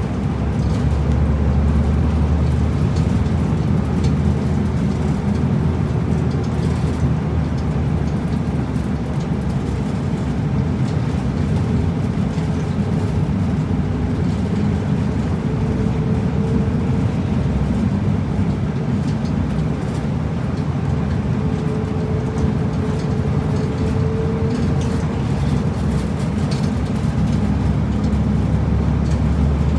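Route bus engine and road noise heard from inside the cabin, running steadily under way, with a faint whine that rises slightly twice.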